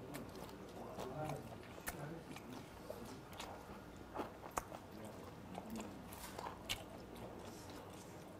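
A man chewing food, picked up close by a clip-on microphone. There are a few sharp, light clicks of metal chopsticks among the chewing.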